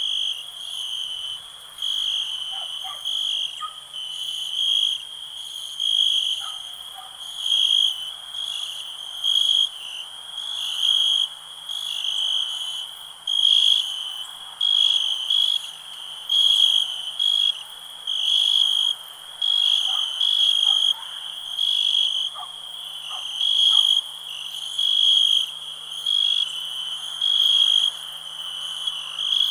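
Crickets chirping: a steady, high-pitched trill that swells in regular pulses about once a second, over a fainter background chorus.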